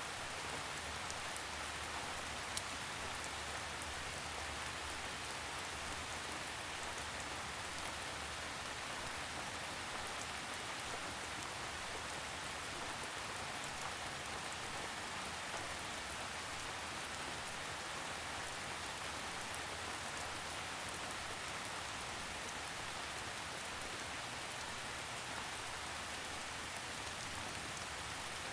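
Steady rainfall, an even hiss of drops with scattered faint individual drip ticks.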